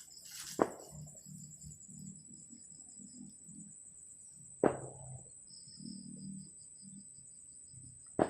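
Crickets or other night insects trilling steadily in a high, finely pulsing tone, with a second insect chirring on and off. Three sharp knocks cut in, about four seconds apart, the loudest sounds present.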